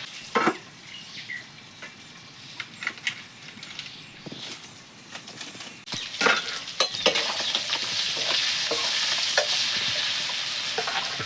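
Pork frying in a pan while being stirred: scattered scrapes and clicks of the spatula, then about six seconds in the frying gets much louder and a steady sizzle holds.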